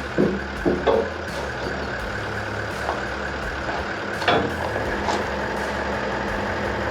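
A vehicle engine idling steadily, with a few short knocks, near the start and again about four seconds in.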